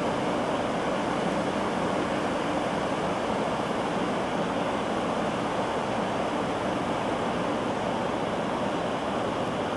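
Steady rush of water in a canal lock as it drains to lower a ship, an even roar at a constant level.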